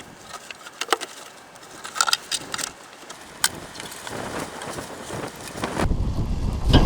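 Metal tire chain clicking and rattling in irregular sharp clinks as it is handled on a light-truck tire. About six seconds in, a heavy low rumble of wind on the microphone takes over.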